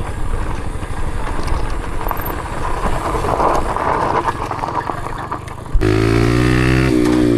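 Dirt bike engine running under rough wind noise on the microphone. About six seconds in, the sound cuts abruptly to a loud, clear engine note that shifts in pitch.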